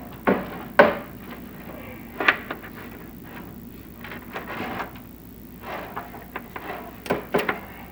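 Chimney inspection camera and its rod knocking and scraping against the inside of a masonry flue. A few sharp irregular knocks, the loudest about a second in, with softer scraping between them.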